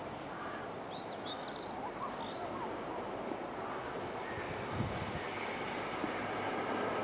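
High Speed Train (InterCity 125) approaching, its engine and wheel noise building slowly and steadily as it nears.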